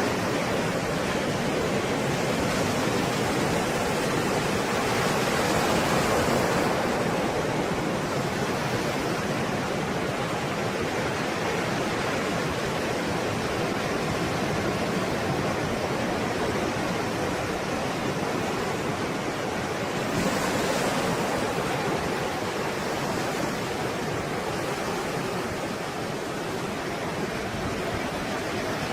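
Stormy sea waves breaking and washing in a continuous rushing noise, swelling a little about six seconds in and again about twenty seconds in.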